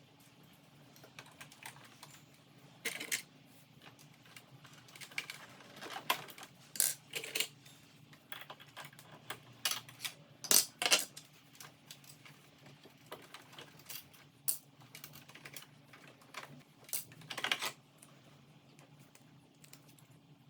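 Irregular small metal clicks and taps of tools and parts being handled on a sewing machine under repair, with the loudest taps about halfway through, over a faint steady hum.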